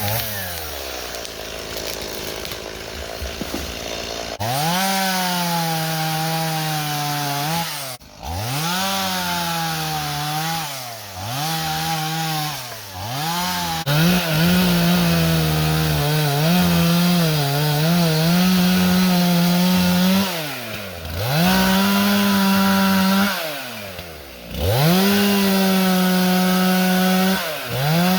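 Two-stroke chainsaw revved up and let back down over and over, its pitch falling when the throttle is released and climbing again, held at high revs for several seconds at a time.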